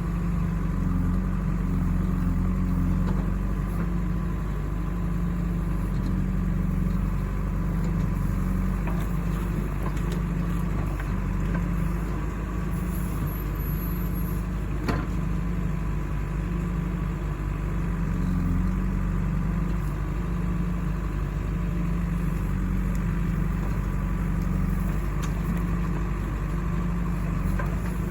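Diesel engine running steadily at an even low pitch that wavers slightly, with one sharp click about halfway through.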